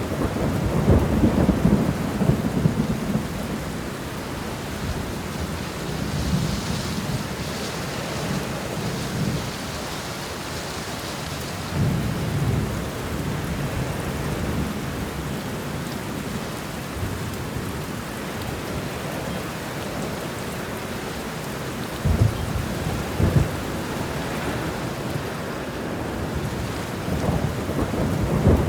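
Steady rain with rolling thunder: low rumbles swell up several times, most strongly in the first few seconds, about twelve seconds in, about twenty-two seconds in and again at the end.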